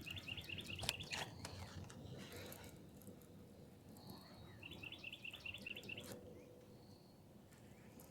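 A songbird singing a rapid run of about ten repeated high notes, lasting about a second and a half, then again about four seconds later. A couple of sharp clicks come about a second in.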